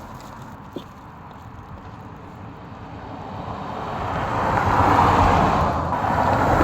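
A car on the road, its tyre and engine noise swelling loudly from about halfway through and staying up to the end.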